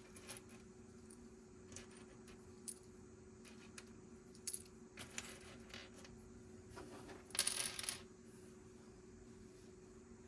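Small plastic Lego pieces clicking and tapping as they are handled, then a short, louder rattle of loose pieces about seven seconds in.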